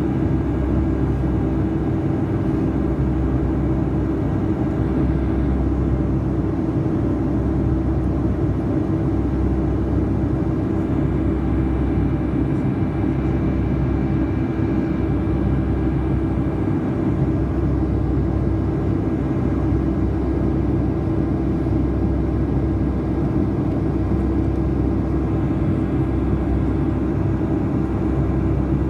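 Steady cabin noise inside a Boeing 757-200 in flight: a continuous drone of the engines and airflow, with a constant hum under it.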